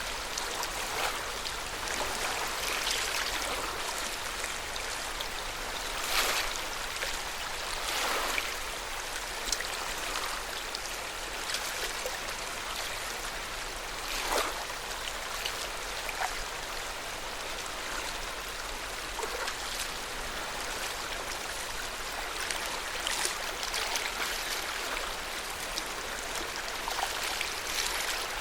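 Small waves of lake water lapping and splashing at the shore. The wash is steady, with a louder splash now and then.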